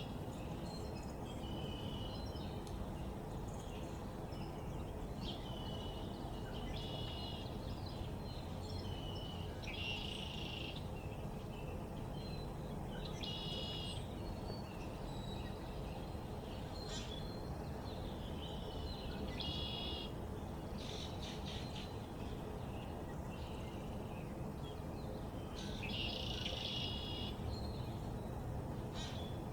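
Small birds chirping in short repeated phrases every few seconds, over a steady low background noise.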